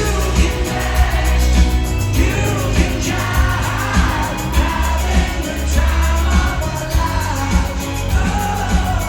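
Live band music with a singer over a steady beat.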